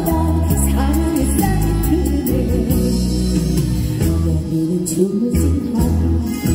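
A woman singing a Korean popular song live over full musical accompaniment with a steady bass line and drums.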